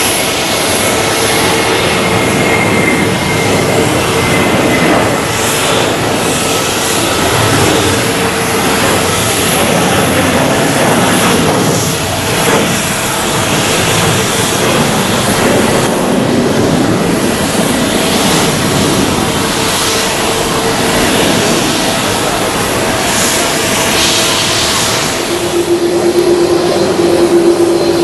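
Jet airliner engines running loudly on the runway: a steady rush of noise with held whining tones, one dipping slightly in pitch early on, and a new lower whine coming in near the end.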